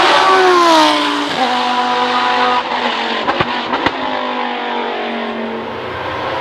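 Historic racing car engine at full volume, its pitch dropping over the first second or so as it slows, then holding steady with a few sharp cracks around the middle before slowly fading away.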